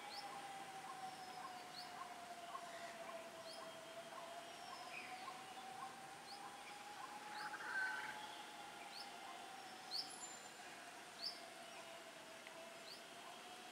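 Faint outdoor ambience: short high bird chirps repeating about once a second over a low hum that slowly wavers in pitch. A brief louder sound comes a little past the middle, and two sharp clicks come near the end.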